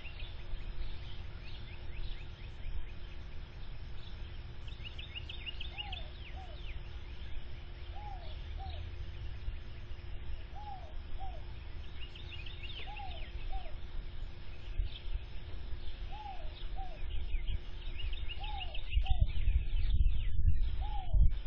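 Birds calling: a pair of short arched notes repeated about every two and a half seconds, and every six or seven seconds a quick burst of high falling chirps, over a low rumble that grows louder near the end and a faint steady hum.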